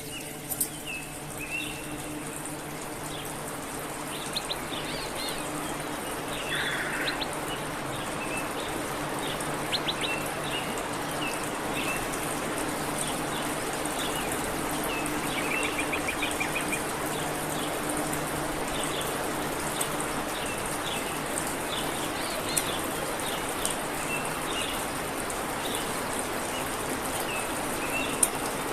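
Small birds chirping in short, scattered calls, with a quick run of rapid notes about halfway through, over a steady hiss and low hum.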